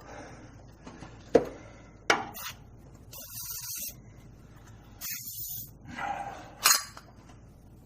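A wrench working a rounded-off exhaust nut, giving a few sharp metal clicks and clanks as it slips on the damaged head. Two short hissing bursts come in the middle.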